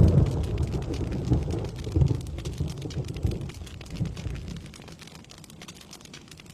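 Rolling thunder rumbling over steady rain, swelling in a few surges and dying away about four to five seconds in, leaving the patter of rain.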